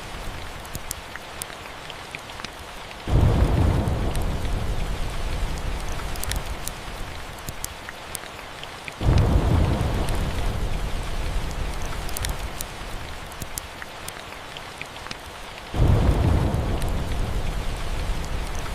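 Steady rain with three rolls of thunder, each breaking suddenly about 3, 9 and 16 seconds in and rumbling away over a few seconds. Sharp little crackles from a fireplace are scattered throughout.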